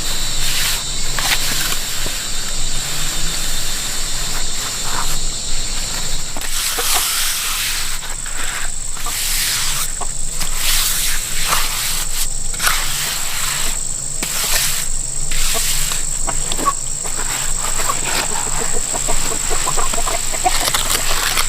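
Steady high-pitched insect drone, with many short scrapes and knocks scattered through it.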